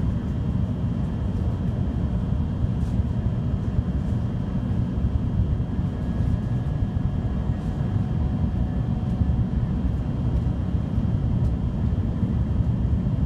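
Tokaido Shinkansen running at speed, heard from inside the passenger car: a steady low rumble of wheels and air, with a faint high hum above it.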